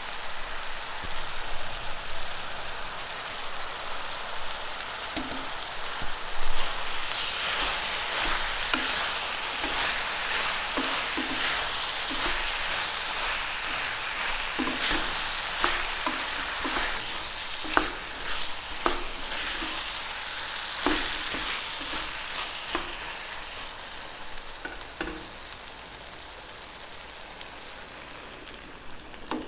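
Tomatoes and onions sizzling in a stainless steel pressure cooker as a spatula stirs them, knocking and scraping against the pot again and again. The sizzle grows louder about a third of the way in and dies down near the end.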